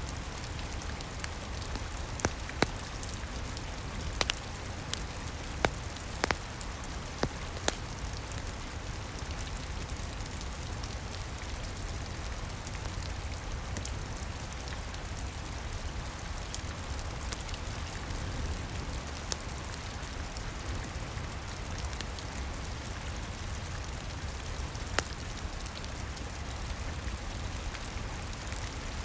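Steady rain with a low rumble beneath. Sharp, scattered pops from a crackling wood fire come a few times in the first eight seconds and once near the end.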